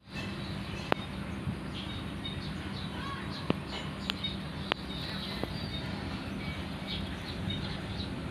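Birds giving many short, high chirps over a steady low hum, with a few sharp clicks or taps scattered through.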